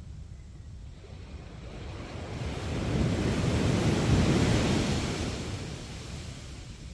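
Sea waves on the beach: one wave swells about two seconds in, breaks and washes loudest near the middle, then fades, over a steady low rumble of surf and wind.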